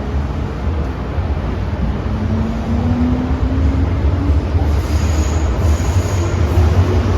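MTR M-train electric multiple unit running between stations: a steady low rumble of wheels on track, with the motor whine rising in pitch as the train gathers speed.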